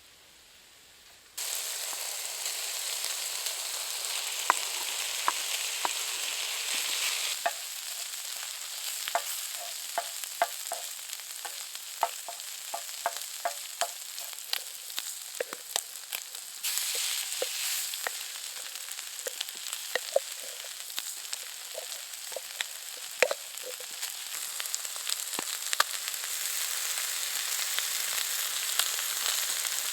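Food frying in a hot pan: a steady sizzle with many scattered pops and crackles, starting suddenly about a second and a half in.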